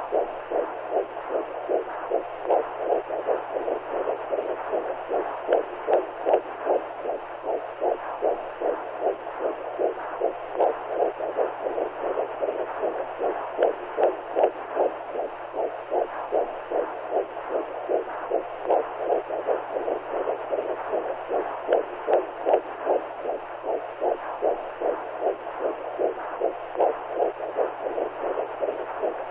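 Womb sound: a steady whooshing noise pulsing in fast, even heartbeat-like beats over a faint low hum, the kind of intrauterine sound used to soothe newborns to sleep.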